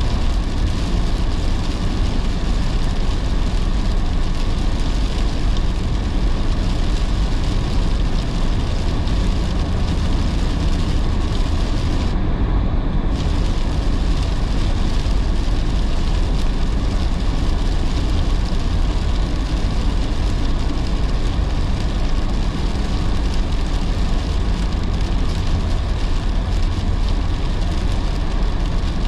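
Car driving in heavy rain: a steady low road rumble under a constant hiss of rain. The hiss briefly thins out for about a second near the middle.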